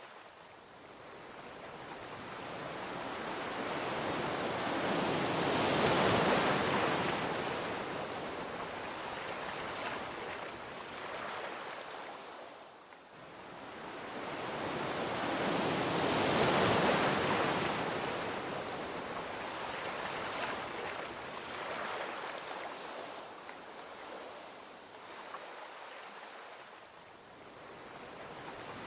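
Ocean waves breaking and washing up a beach: two slow swells of surf, about ten seconds apart, each rising to a peak and ebbing away, with a third building near the end.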